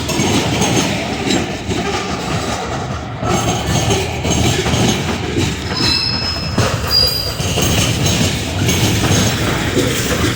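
A train rolling past close by, its wheels rumbling and clattering over the rails, with two brief high wheel squeals a little past halfway.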